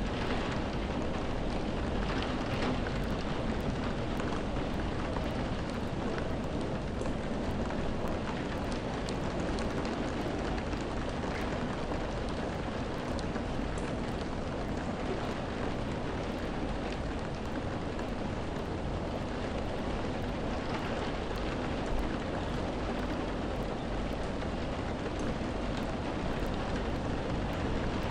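Steady rain: an even hiss with a deep undertone and scattered taps of drops.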